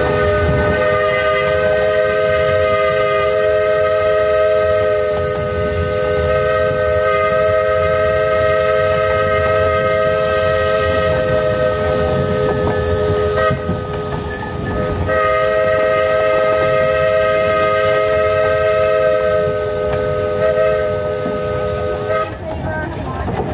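Steam locomotive's chime whistle sounding a steady three-note chord in two long blasts, the first about thirteen seconds and the second about seven, with a short break between, over the rumble of the train running.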